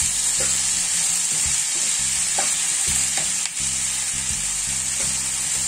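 Diced potatoes, carrots, bell peppers and onion sizzling steadily in hot vegetable oil in a frying pan, stirred with a plastic spatula that clicks against the pan a few times.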